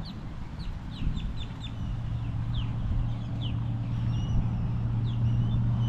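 Birds chirping: a rapid run of short, falling chirps, several a second, with a few longer whistled notes near the end, over a steady low hum.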